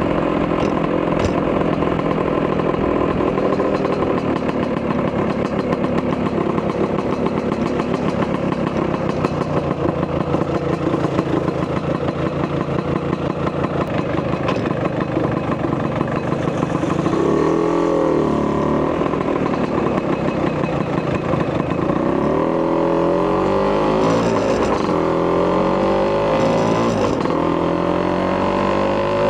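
Vespa PX200 with a 210cc Polini two-stroke single-cylinder kit and a Malossi expansion-chamber exhaust, running steadily while riding. In the second half the engine speed rises and falls several times as the scooter accelerates and eases off.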